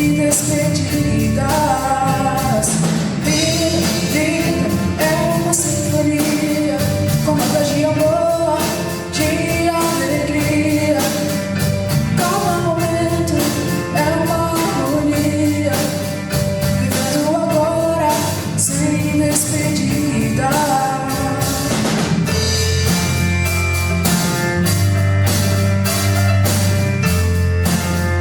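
Live pop-rock band playing a song: a lead vocal sung over drum kit, bass guitar, electric guitar and keyboard, with a steady beat. Near the end the vocal drops out and the band plays on, the bass more prominent.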